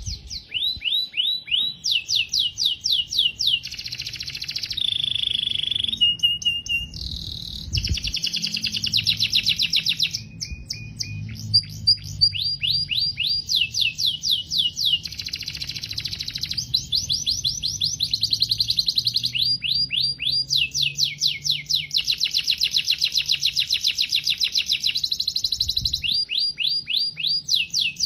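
Domestic canary singing a long, continuous song of fast trills. Each phrase is a rapid run of one repeated note, and the bird switches to a new trill every second or two.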